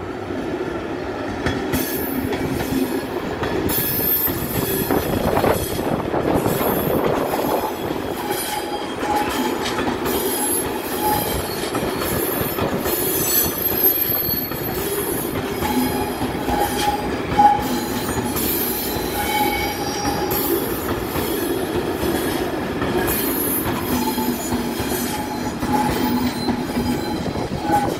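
Electric passenger train passing close by: steady rumble of wheels on the rails with intermittent high wheel squeal and some clacking over the rail joints.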